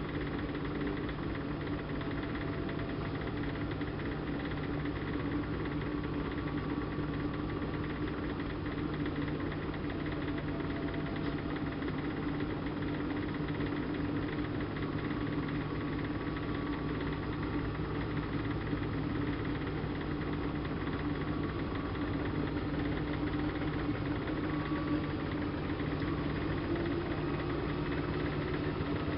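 Siemens Siwamat IQ front-loading washing machine running with a steady motor hum and the whir of the turning drum, holding an even pitch throughout.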